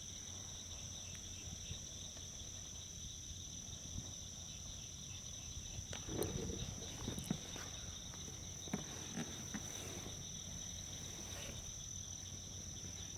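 Steady, high-pitched chorus of marsh frogs and insects, droning on with no break, which the listeners take for frogs; a few faint brief sounds come through around the middle.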